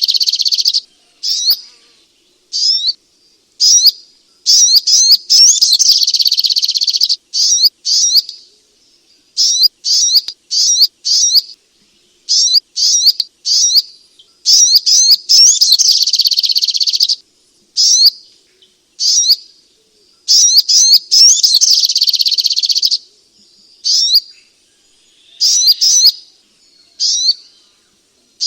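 Sogok ontong (spiderhunter) singing: runs of short, sharp, high-pitched chirps, broken three times by a dense rapid chattering burst of two or three seconds.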